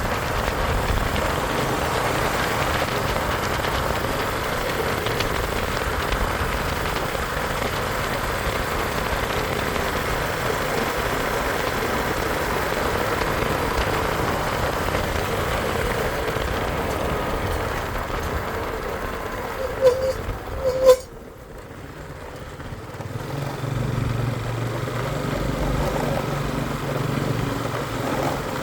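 Bajaj Avenger motorcycle engine running steadily. About twenty seconds in there are two sharp knocks, then the sound cuts off suddenly, and a lower, steadier hum builds back up a few seconds later.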